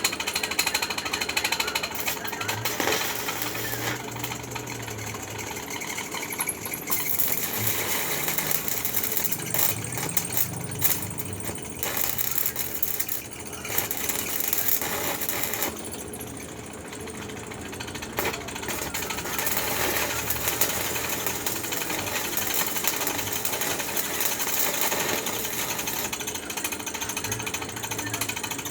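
Electric arc welding on steel foundation bolts: the arc crackles and sizzles steadily, easing off briefly about halfway through and again a little later.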